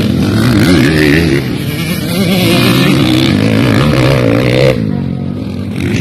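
Motocross motorcycle engines revving, the pitch rising and falling with the throttle; one rev climbs and cuts off sharply near the end.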